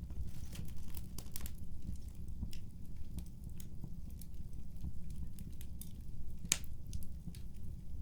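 Fireplace fire crackling: irregular sharp pops and snaps over a steady low rumble, with one louder pop about six and a half seconds in.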